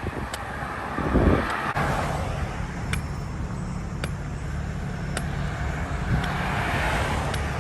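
Road traffic: motor vehicles passing on a highway with a steady tyre-and-engine rumble, one swelling as it goes by in the second half.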